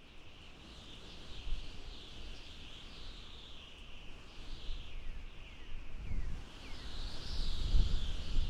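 Birds chirping in a steady high chorus, with a few short falling whistles partway through. Gusts of wind rumble on the microphone near the end.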